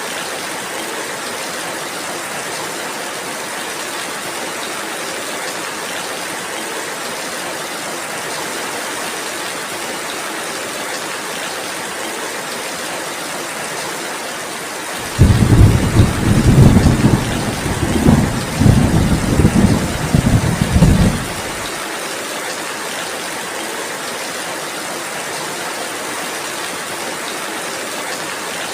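Steady rainfall, with a roll of thunder about halfway through: a sudden deep rumble lasting about six seconds, swelling and fading in waves, louder than the rain.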